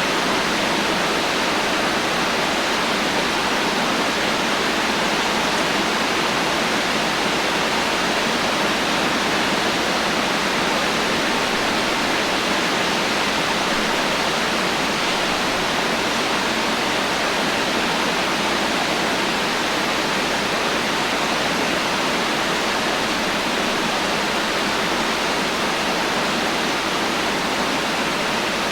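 Heavy rain falling steadily, an even dense hiss with no thunder and no separate drops standing out.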